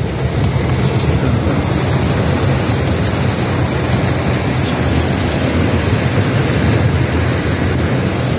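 Torrential rain pouring down, heard from inside a car: a loud, steady wash of rain noise over a constant low rumble.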